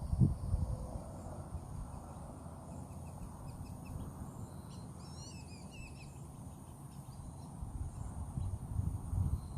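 A bird calling: a few quick chirps, then a short warbling phrase about five seconds in. Under it there is a low, uneven rumble and a steady high insect drone.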